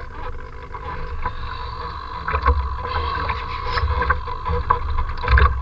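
Strong gusty wind buffeting the microphone in a low rumble, with short sharp splashes and knocks from choppy water.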